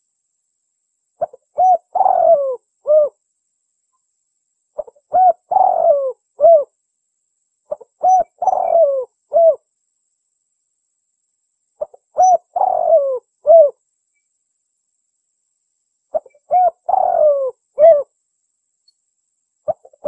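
Spotted dove (tekukur) cooing: five phrases a few seconds apart. Each phrase is a couple of short coos, a longer falling coo, then a final short coo.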